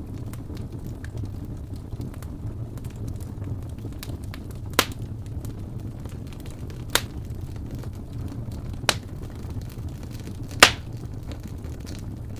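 Wood fire crackling over a steady low rumble: many faint ticks and four sharp pops about two seconds apart, the last one the loudest.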